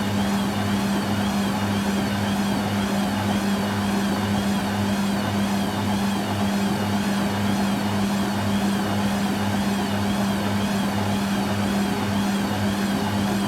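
Hoover Quattro System Power Jet washing machine running on its rinse and spin programme: a steady motor hum with a low throb pulsing about twice a second.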